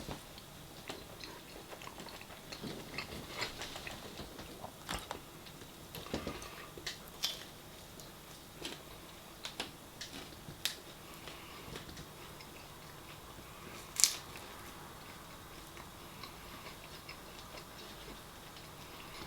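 Someone eating at the table: quiet chewing with scattered small clicks from cutlery and food, and one sharper click about two-thirds of the way through.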